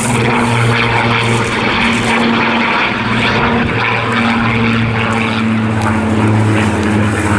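Propeller-driven Spitfire's V12 piston engine running through a display pass: a continuous, loud drone whose pitch shifts slightly as the aircraft moves.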